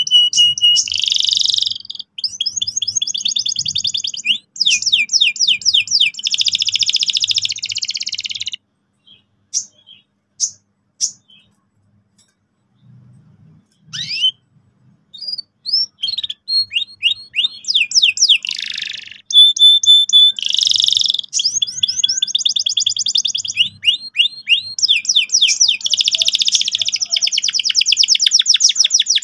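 Domestic canary singing loud, fast rolling trills of rapidly repeated notes. About eight seconds in, it breaks off into a few scattered chirps for several seconds, then the rolls resume and run on.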